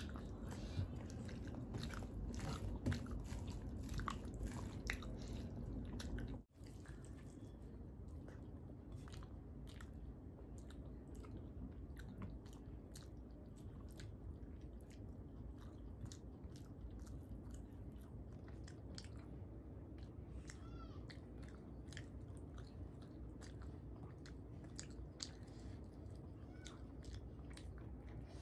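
Chewing and mouth sounds of someone eating rice and fish curry by hand, with many small clicks as fingers mix the food on a steel plate. The sound cuts out for a moment about six seconds in and is a little quieter afterwards.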